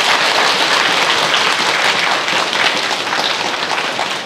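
Audience applauding: many hands clapping at once in a dense, steady patter that eases off a little near the end.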